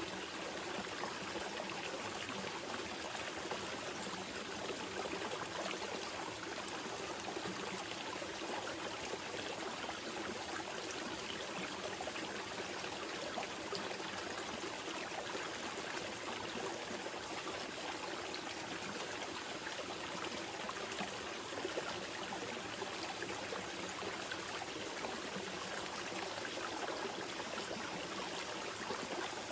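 Small mountain river flowing steadily over stones, an even rush of water with fine trickling and splashing detail.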